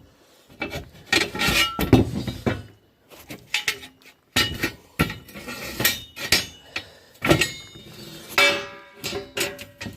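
Pieces of scrap metal clanking and clinking as they are handled and set down: a string of separate knocks, some with a short metallic ring.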